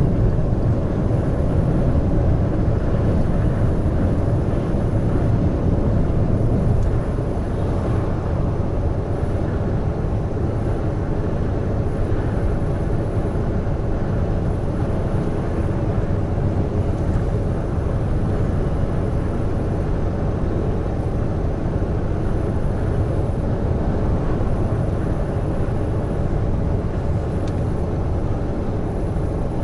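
Heavy truck cruising on an expressway: steady engine drone and tyre and road rumble with a steady hum above it, the whole getting a little quieter about seven seconds in.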